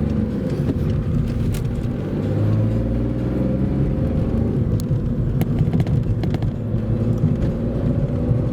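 Skoda Fabia's 1.4 three-cylinder pump-injector turbodiesel pulling the car along, heard from inside the cabin with a heavy droning hum under load, its note rising near the end. A few light clicks about halfway.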